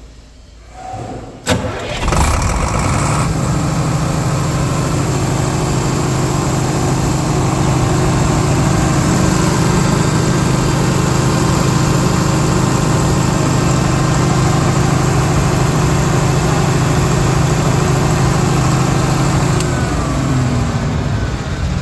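Kirloskar 6SL diesel engine of a 160 kVA generator set starting: a sharp click, then it catches about two seconds in and runs at a steady speed with a strong even hum. Near the end the pitch drops slightly.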